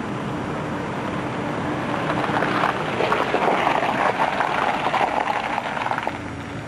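Vehicle noise on a wet road: a steady low hum, with a louder hissing swell for about four seconds in the middle that then fades.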